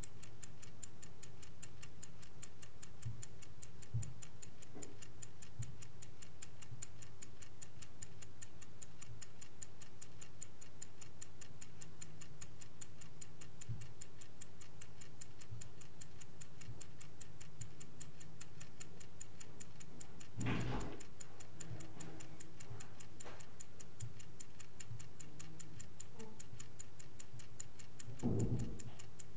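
Vintage Swiss-made Angelus mechanical clock ticking at a fast, even rate over a low steady hum. Two dull thumps break in, about two-thirds of the way through and again near the end.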